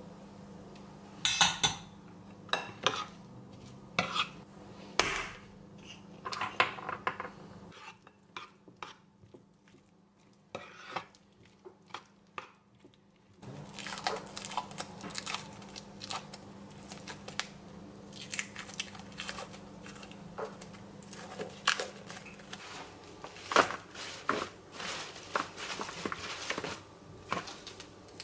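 Dishes and cutlery clinking and knocking irregularly during kitchen food preparation, over a low steady hum that cuts out and comes back.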